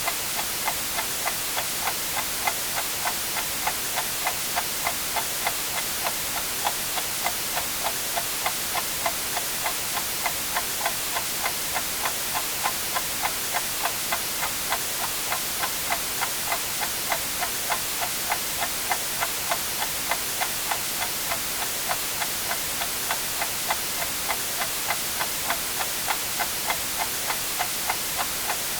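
A clock ticking steadily at about two ticks a second over a constant white-noise hiss.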